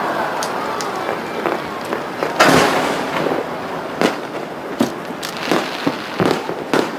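Aerial fireworks bursting: a loud bang about two and a half seconds in, then a run of sharp cracks about every half second to second.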